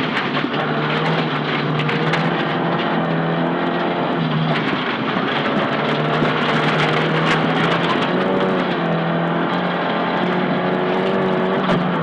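Nissan Silvia S15 rally car's engine running hard at steady high revs under a wash of road noise. It eases off and picks up again twice, about halfway through and again later on.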